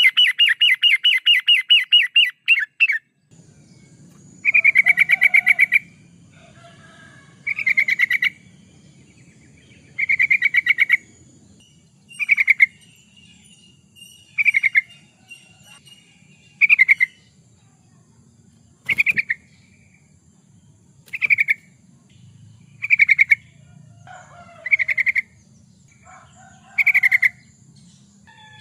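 Yellow-vented bulbul (trucukan) singing. It opens with a rapid chattering run for about three seconds, then gives short bubbly phrases about every two seconds. A single sharp click comes a little past the middle.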